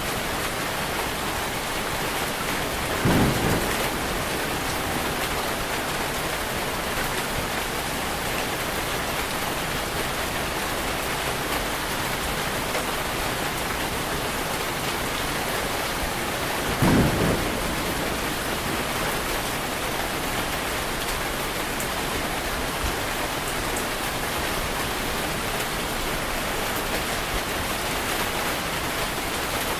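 Steady rain, with two short low rumbles of thunder standing out above it, about three seconds in and again about seventeen seconds in.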